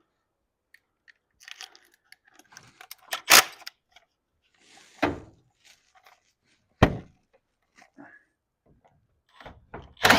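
Metal hardware and tools clinking and knocking on a garage door's torsion spring assembly, with three sharp knocks about three, five and seven seconds in. Near the end a motor starts running steadily, likely a drill driving the EZ-Set spring winder to add spring tension.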